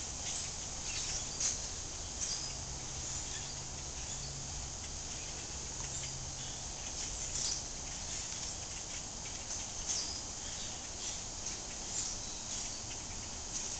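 A large flock of small blackbirds calling in the trees: a dense, continuous chatter of short, high chirps and squeaks from many birds at once.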